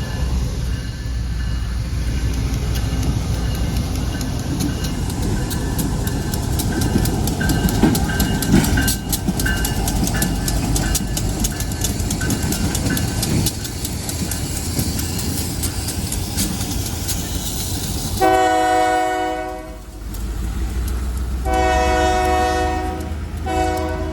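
York Railway Company freight train's locomotives rumbling past with wheels clicking over the rail joints, then the locomotive horn sounded three times near the end: one blast, a short gap, then two more close together.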